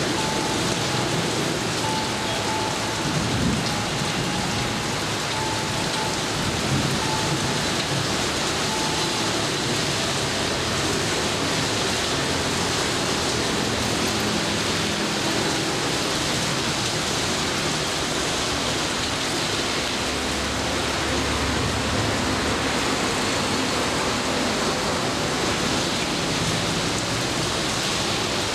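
Steady heavy rain falling, a constant hiss of drops, with a brief low rumble about twenty seconds in.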